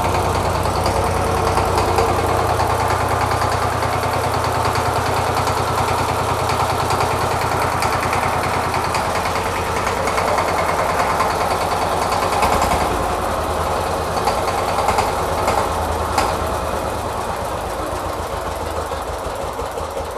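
Second-hand, reconditioned Sifang 12 hp single-cylinder diesel engine running steadily with an even, knocking chug. It is being run to judge its sound and condition.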